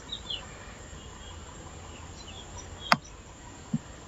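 Faint scattered bird chirps in the background, with one sharp click about three seconds in and a short dull thump near the end.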